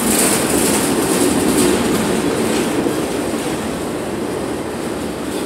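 Union Pacific freight train's cars, including autorack car carriers, rolling past at close range: a steady rumble and rattle of steel wheels on the rails, with a hiss on top.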